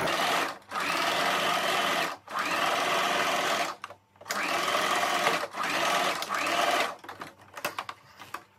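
Sewing machine stitching fabric in about five short runs, with brief stops between them. It stops about seven seconds in, leaving a few light clicks.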